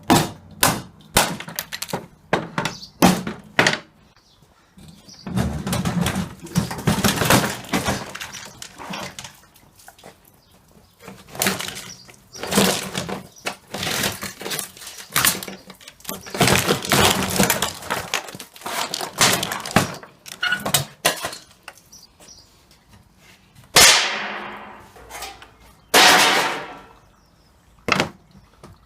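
Metal and plastic parts of a dishwasher being knocked, pried and pulled apart while it is stripped down for scrap: irregular knocks, scrapes and rattles, with two loud crashes near the end.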